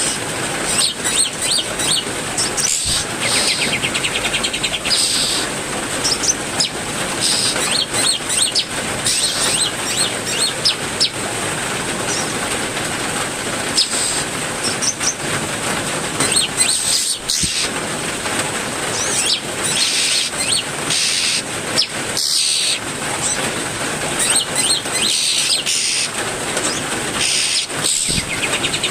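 Steady rain falling, with several songbirds in an aviary chirping and calling over it, short chirps coming every second or so.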